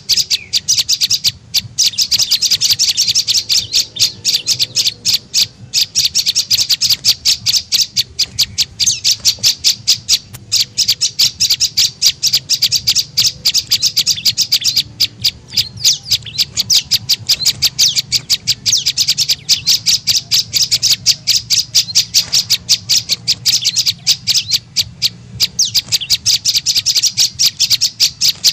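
Prenjak lumut bird calling: a rapid, unbroken series of sharp, high chips, several a second, pausing only briefly now and then. It is a luring call used to draw birds of the same species in.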